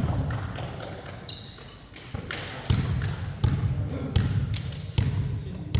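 A basketball being dribbled on a court, thudding about once every 0.7 s from about two seconds in, with a couple of short high squeaks from trainers on the floor.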